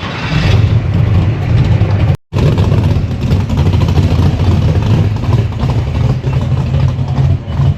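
A car engine running loud and close, a steady low rumble with some revving. The sound drops out completely for a moment about two seconds in.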